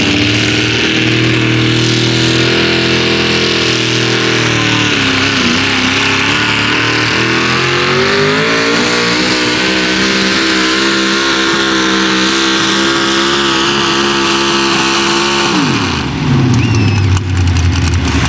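Pulling truck's big-block engine running at high rpm under the load of a pull. The revs sag about a third of the way in and climb back, hold steady, then drop sharply near the end as the driver lets off.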